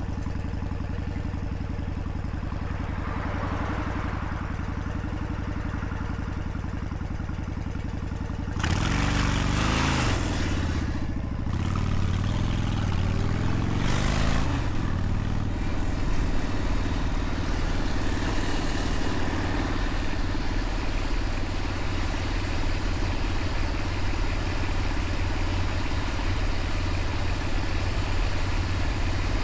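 Motorcycle engine idling steadily, then about nine seconds in it pulls away, revving up and shifting twice, and runs on steadily at speed.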